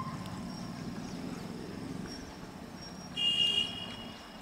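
Low rumble of an approaching electric train, with a short, high horn toot about three seconds in.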